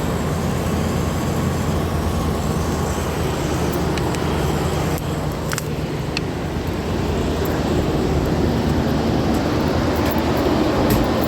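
Steady low rumble of running machinery, with a few light clicks about four to six seconds in and again near the end.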